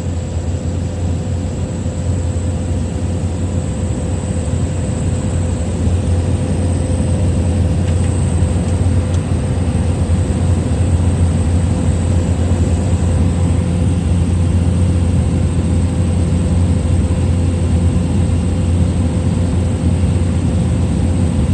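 Steady drone of a small plane's engine and propeller heard from inside the cabin in flight, a deep hum with a constant mid-pitched tone and a faint high whine over it; it grows a little louder after about six seconds.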